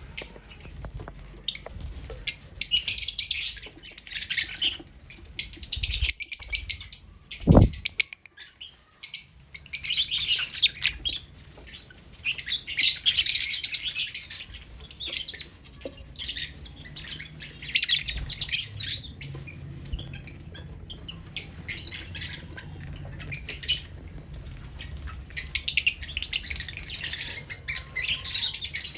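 Lovebirds chirping and chattering in shrill, scratchy bursts of a second or two, again and again, with a single brief thump about a quarter of the way in.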